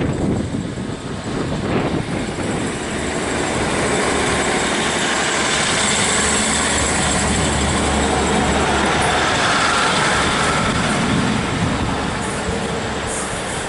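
Class 150 Sprinter diesel multiple unit moving off along the platform under power: its underfloor diesel engines hum steadily beneath the rumble of the carriages rolling close by. The sound swells as the train passes and eases off near the end as it draws away.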